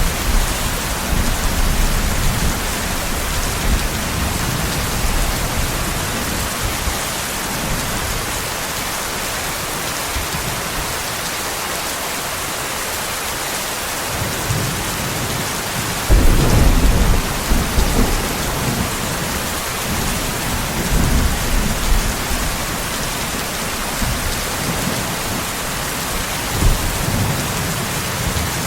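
Steady rain with rolling thunder. A thunder rumble dies away in the first several seconds, a new one breaks out suddenly about halfway through and rolls on for several seconds, and a shorter one comes near the end.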